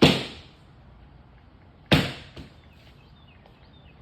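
Two loud, sharp bangs about two seconds apart, each echoing briefly, with a smaller knock just after the second.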